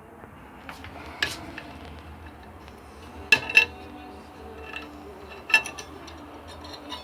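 Several sharp metallic clinks and knocks over a low steady hum. Two come close together about three seconds in and are the loudest, and another follows about two seconds later.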